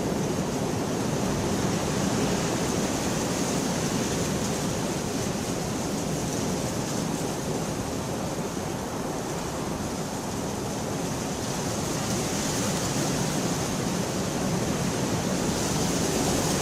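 Steady rain falling, a dense even hiss with no thunder.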